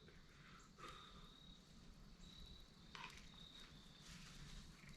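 Near silence with faint insect trilling: a thin, high, steady note that starts and stops in stretches of about half a second to a second. A couple of faint short clicks sound about one and three seconds in.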